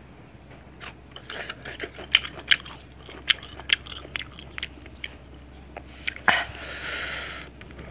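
Close-up chewing of crunchy sliced ginger root coated in chili salt: a run of sharp, wet crunches, then a longer breathy hiss near the end.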